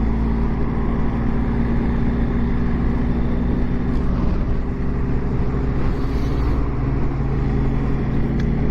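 Motorcycle engine running at a steady cruise, heard from the rider's seat under a constant rush of wind noise.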